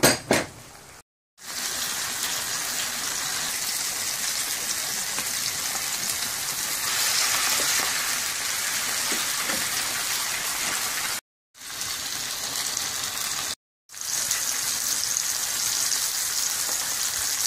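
Chicken strips and vegetables sizzling in a hot frying pan: a steady, loud hiss that drops out to silence briefly twice. A couple of sharp knocks come right at the start.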